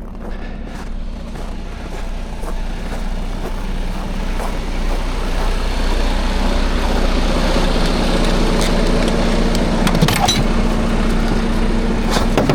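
Truck engine running steadily, growing louder from about four seconds in and then holding level, with a broad rushing noise over its low hum.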